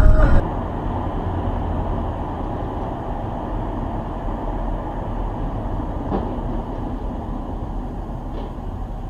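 Steady low rumble of a moving vehicle, fading slightly toward the end, with a faint tick about six seconds in.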